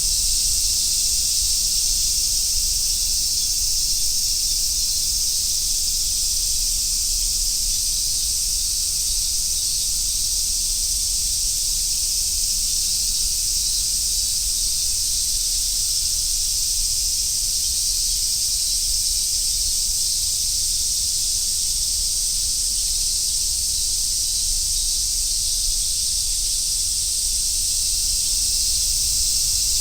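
Dense chorus of cicadas, among them large brown cicadas (aburazemi) and minmin cicadas, merging into one steady, high sizzling hiss with no breaks.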